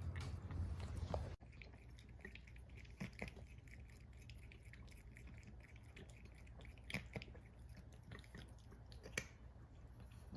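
A cat chewing and biting food, with wet smacks and small crunches. The louder chewing cuts off abruptly about a second and a half in, leaving quieter, scattered clicks and smacks.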